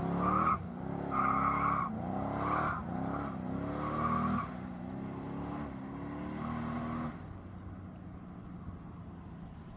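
Twin-turbo LS-powered S10 pickup making a drag pass, its engine climbing in pitch and dropping back again and again as the tires spin and squeal, then fading as it pulls away down the track. The repeated surges are the sign of wheelspin: the truck can't get traction.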